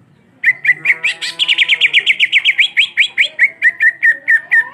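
Cucak ijo (green leafbird) singing a fast rolling trill, rapid chirps at about seven a second that rise a little in pitch in the middle and settle lower toward the end.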